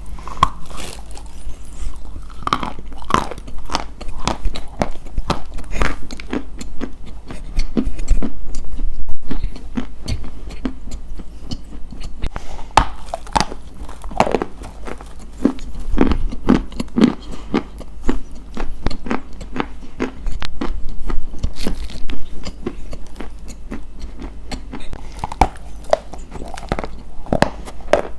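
Close-miked biting and chewing of something crunchy: a run of irregular, crisp crunches and crackles, with a steady low hum underneath.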